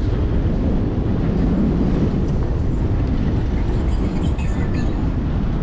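Steady, loud low rumble of wind and road noise from a bike ride, with a few faint high chirps about four seconds in.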